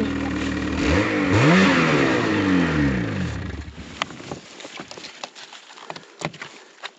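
An engine running steadily revs up about a second in, then spins down and dies away over the next two to three seconds. Scattered sharp clicks and knocks follow.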